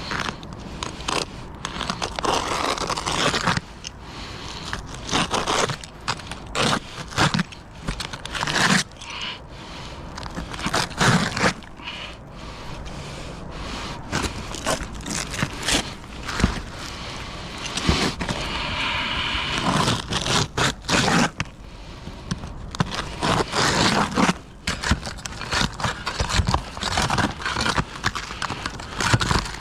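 Irregular scraping with sharp knocks and clicks from roofing materials being handled and worked.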